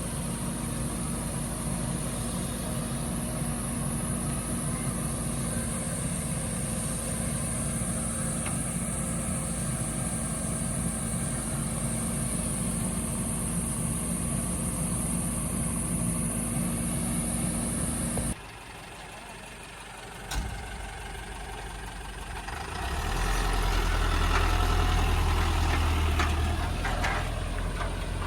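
Heavy diesel engine of earth-moving machinery running steadily. About 18 seconds in the sound cuts off abruptly to a quieter engine hum, and from about 23 seconds a deep, louder engine rumble builds.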